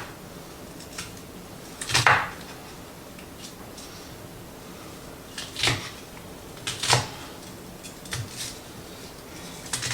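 Kitchen knife cutting through an onion onto a cutting board: a handful of separate knocks of the blade hitting the board, a second or more apart.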